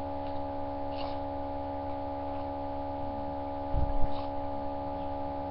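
A steady hum made of several held tones, with a soft knock about four seconds in.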